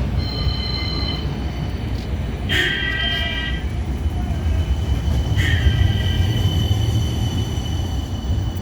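A tram running on street track with a steady low rumble. Three times, a high-pitched squeal of several held tones comes in for about a second, typical of steel wheels squealing against the rail.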